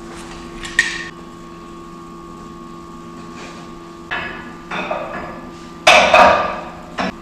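Metal being struck and handled during snowplow bracket work: a sharp knock about a second in, then a run of ringing metal clangs and clatters in the second half, loudest about six seconds in. A steady hum runs underneath.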